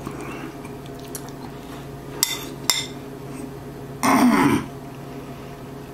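A man tasting food: two sharp clicks, like a utensil against a bowl, then about four seconds in a loud, short "mmm" of enjoyment with a falling pitch, hummed with the mouth closed.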